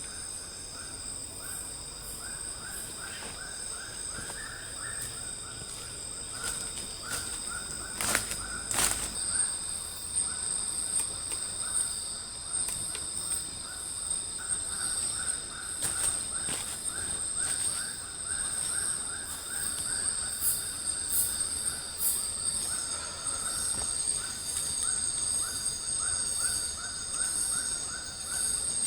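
Night-time tropical forest insect chorus: several insects trilling steadily at high pitches, with a lower call pulsing rapidly in runs that stop and start. A few sharp clicks come about eight seconds in.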